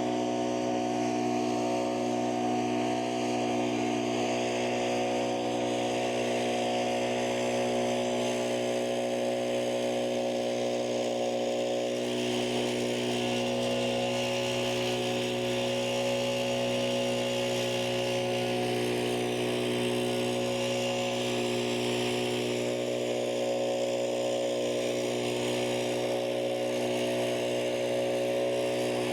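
Kubota tractor engine running at a steady speed while working a snowblower, with a hiss of blowing snow and wind over it.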